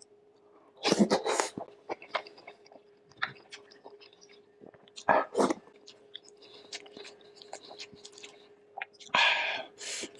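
Close-miked eating: a person chewing soft, tender beef shank with wet smacking clicks, and three louder bursts about a second in, around five seconds and near the end.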